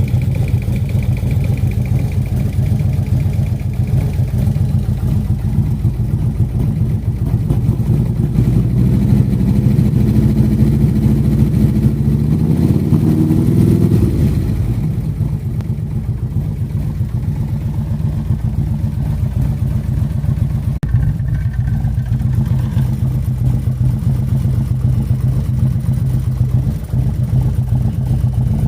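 2003 Harley-Davidson Road King's air-cooled Twin Cam 88 V-twin running. It idles, is revved up gradually from about eight seconds in, and drops back to idle about fourteen seconds in. The owner is unsure whether an extra noise in it is normal or abnormal.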